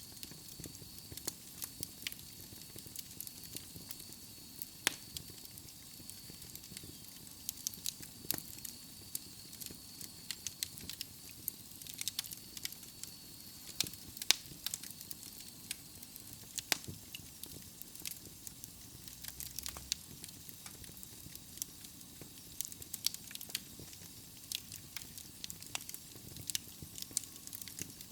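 Wood logs burning in a fireplace, crackling with irregular sharp pops and snaps over a soft hiss. A faint thin high whistle runs through the first half and stops about halfway.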